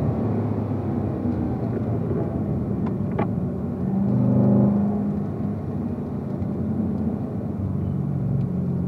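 Corvette V8 engine heard from inside the cabin as the car brakes hard into a corner on track, easing off from high speed. About halfway through the engine sound swells as it drops from fourth to third gear.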